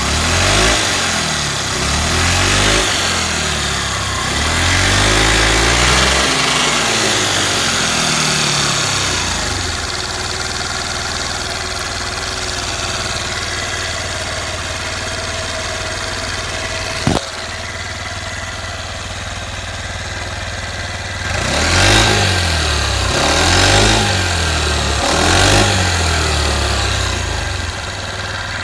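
Honda Benly Pro 50's small single-cylinder four-stroke engine revved up and down, then idling steadily, with one sharp click partway through and three short throttle blips near the end. The seller describes it as running with no abnormal noises.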